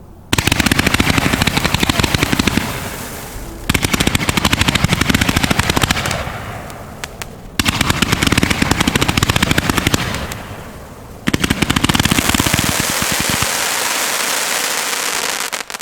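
500-gram sprinkler firework cake firing its tubes in rapid succession, shot after shot like machine-gun fire, in four long volleys. Each volley trails off into hissing and crackling before the next begins.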